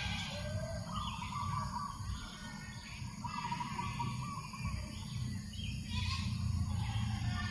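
Birds calling and chirping at intervals over a steady low rumble of breeze.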